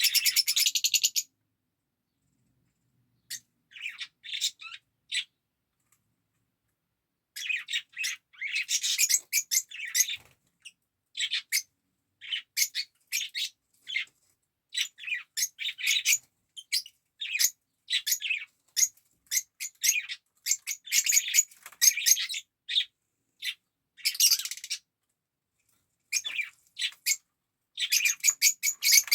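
Fischer's lovebird chirping in short, shrill, high-pitched calls, coming in quick bursts of chatter with gaps between; it opens with a rapid trill that stops about a second in.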